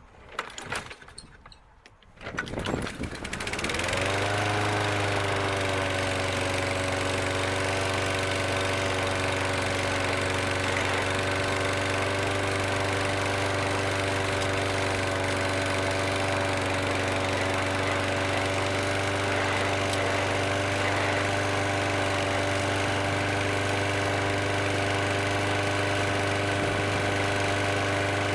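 Craftsman walk-behind mower's Briggs & Stratton engine pull-started, catching about three seconds in, briefly rising in speed and then running steadily at a constant speed.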